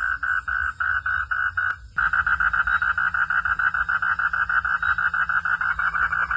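Frog calling in a steady run of rapid, evenly pulsed notes at about six a second. The calling breaks off with a click a little under two seconds in, then resumes at a faster pace, about ten pulses a second.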